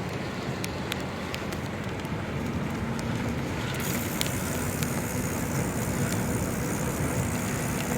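Steady wind and road noise from a moving ride, with a low hum underneath and scattered sharp clicks.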